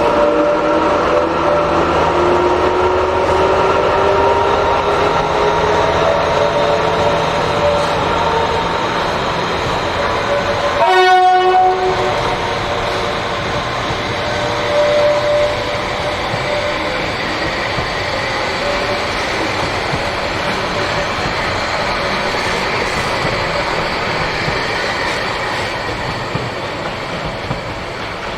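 A train running, its engine note rising slowly at first. It gives one short signal blast about eleven seconds in.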